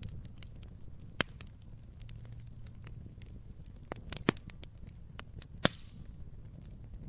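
Wood fire crackling: scattered small snaps over a low steady rumble, with three sharper pops about a second in, past four seconds and near six seconds.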